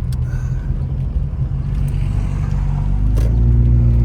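Car engine and road rumble heard from inside the cabin while driving. About three seconds in, the engine note steadies into a firmer hum and grows louder.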